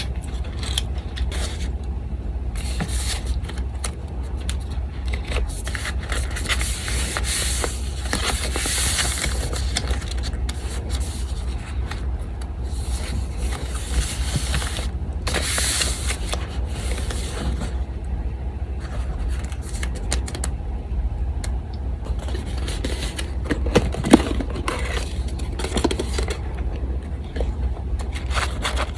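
Paper being handled: rustling and scraping in stretches, strongest about a quarter of the way in and again around halfway, with a sharp tap near the end. Under it runs the steady low hum of an electric fan.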